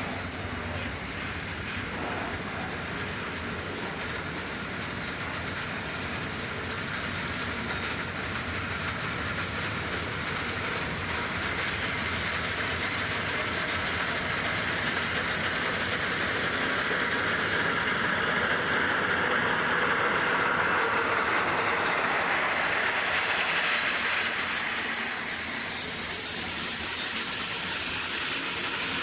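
Container wagons of a long freight train rolling past on the rails, a steady rumble of wheels and running gear that grows louder past the middle and eases near the end.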